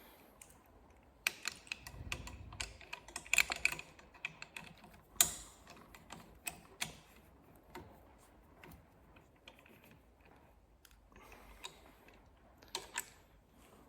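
Irregular clicks and light knocks of a motorcycle auxiliary light and its metal holder being handled and lined up on the mount. They come thick for the first several seconds, with one sharp knock standing out, then thin to a few clicks near the end.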